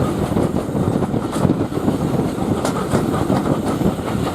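Passenger coach of a steam-hauled train running along the track: a steady rumble of wheels on rails with a few sharp clicks from the rail joints.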